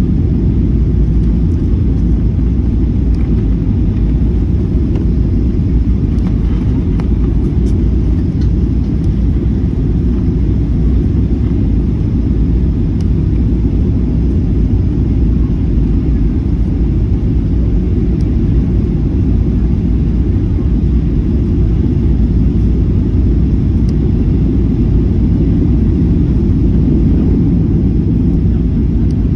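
Jet airliner heard from inside the passenger cabin: a steady, loud low rumble of engines and airframe that holds even throughout.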